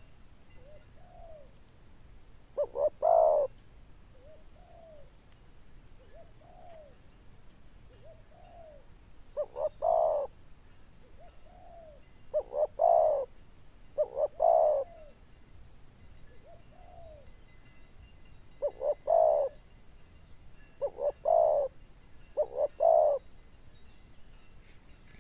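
Male spotted dove cooing: soft single rising-and-falling coos between louder calls of a few quick notes and a longer final note, heard seven times.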